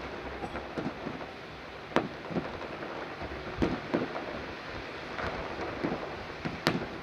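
Aerial fireworks bursting: a continuous dense crackle with irregular booms, the sharpest reports about two seconds in and near the end.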